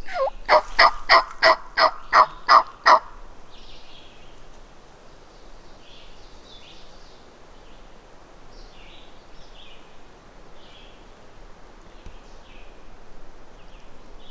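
A series of about eight loud, evenly spaced turkey yelps over the first three seconds, then faint songbird chirps.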